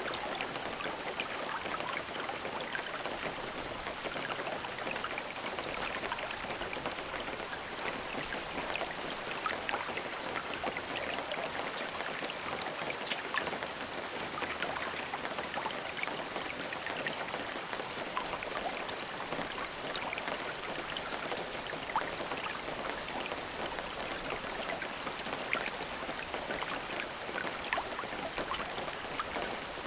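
Steady rain falling on a surface, a dense patter of individual drops with no thunder.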